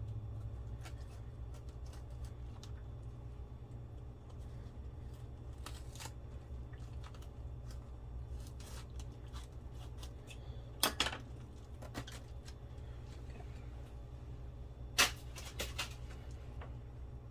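Kitchen knife cutting into a raw cabbage head around its core: faint crisp crunches and clicks, with a couple of sharper knocks about eleven and fifteen seconds in, over a steady low hum.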